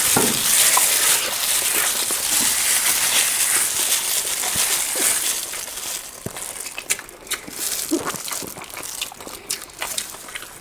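Panipuri being eaten fast, the crisp puri shells crunching and crackling while chewing. The noise is dense for the first half, then thins to scattered crackles and clicks.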